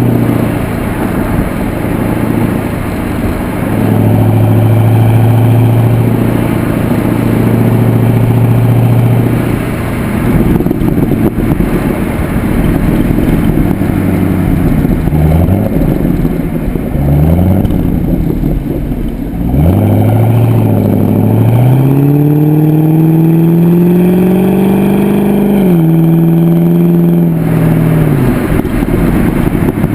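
Pontiac G8 GXP's LS3 V8 through a Corsa exhaust, running steadily at first. Around the middle it gives several short, quick rises in pitch, then a long pull that climbs in pitch, drops suddenly and settles back to a lower steady note near the end.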